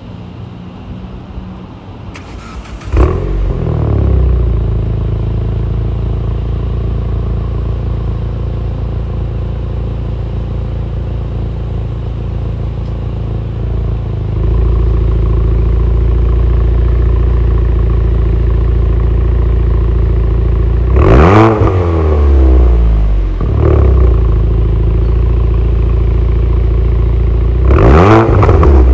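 Proton Suprima S's 1.6-litre turbocharged four-cylinder engine cold-started: the starter cranks for under a second about two seconds in, then the engine catches with a flare of revs and settles into a fast cold idle. The idle gets louder about halfway through. In the second half come three quick throttle blips, each rising and falling in pitch; the first and last are the biggest, the last near the end.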